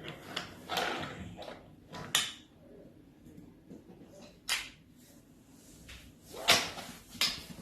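Wooden toy train pieces being handled, knocking and clacking together in a handful of separate knocks and short scrapes, the loudest about six and a half seconds in.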